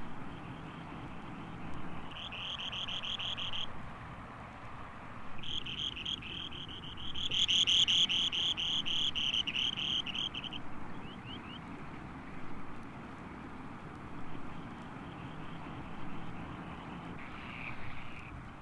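Spoon-billed sandpiper singing: two rapid, buzzing high trills, a short one about two seconds in and a longer one from about five to eleven seconds that is loudest near its middle, with fainter trills near the end.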